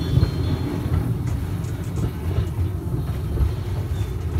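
Steady low rumble of a small excursion train in motion, heard from inside its open-sided passenger carriage.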